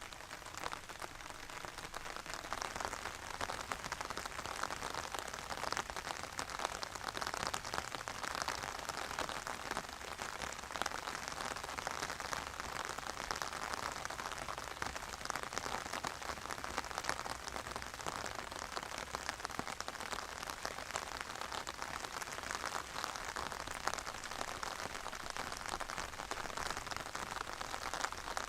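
Steady, calm rain: a dense, even mass of small drop ticks that keeps on without a break.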